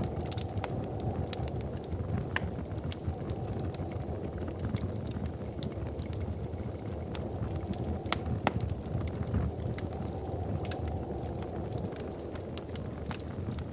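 Wood fire crackling in a fireplace: a steady low rush of flames with frequent irregular pops and snaps, one sharper pop about eight seconds in.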